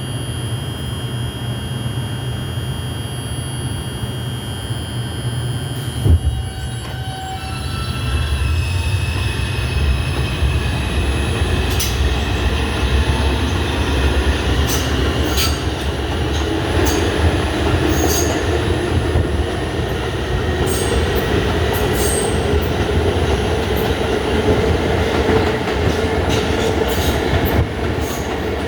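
Inside an R142 subway car: a steady low hum, a single thump about six seconds in, then the traction motors whine up in pitch as the train picks up speed. The wheels rumble and click over the rails.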